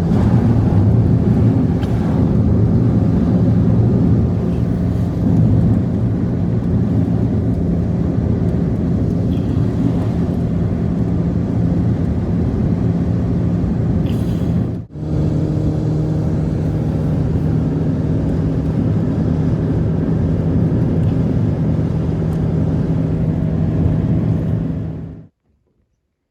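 Vehicle engine running steadily with a constant low hum, broken by a short cut about fifteen seconds in and stopping abruptly near the end.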